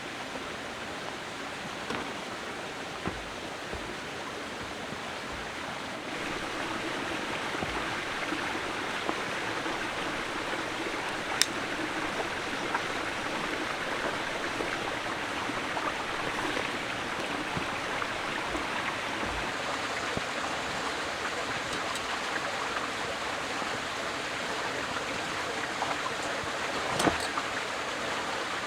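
Steady rushing of flowing water, like a stream, growing a little louder about six seconds in, with a few sharp clicks on top.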